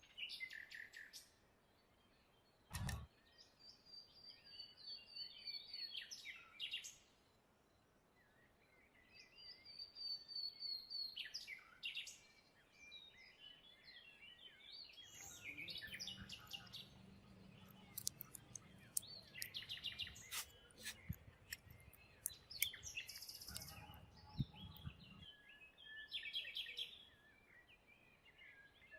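Small birds chirping and singing in repeated short high phrases, with scattered sharp clicks and taps. A low hum comes in for a few seconds past the middle and again briefly near the end, and there is one dull thump about three seconds in.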